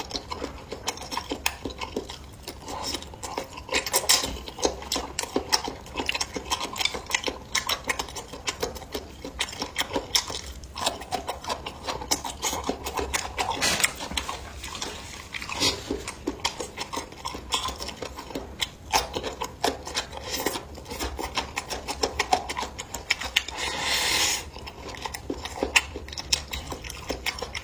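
Close-up eating sounds: utensils clicking and scraping against dishes in an irregular run of small knocks, with chewing of food.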